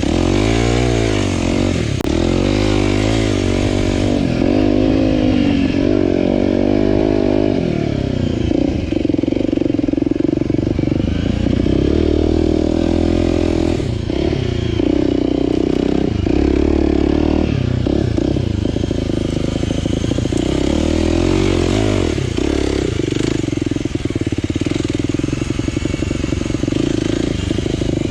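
Aprilia RX125 4T's single-cylinder four-stroke engine through a Snell slip-on silencer with dB killer, revving up and falling back again and again as the bike is ridden through the gears.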